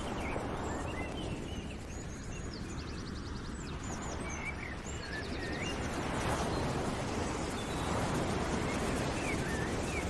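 Several birds chirping, with a few rapid trills, over a steady rushing background noise.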